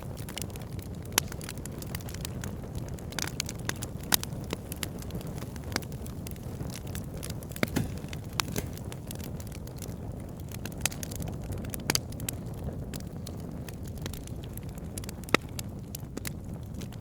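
Campfire burning: a steady low rumble of flames with irregular sharp crackles and pops of burning wood, a few louder snaps scattered through.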